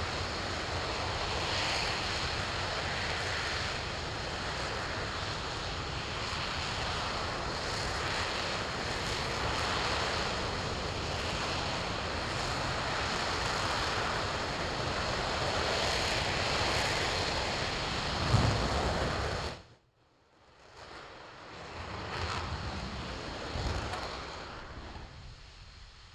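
RS-25 liquid-fuelled rocket engine firing on a test stand: a loud, steady rushing noise with a low thump just before it cuts off abruptly about twenty seconds in. A fainter rushing noise then swells and dies away.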